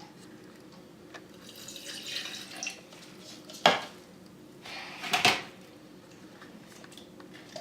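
A cup being handled on a hard surface: soft rustling, then two sharp knocks about a second and a half apart, the second trailing into a short scrape.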